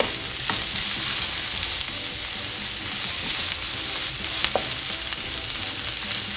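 Sliced yellow onions sizzling in hot oil in a wok as they are stirred with a wooden spoon, sautéing until soft. A steady hiss, with a couple of brief clicks.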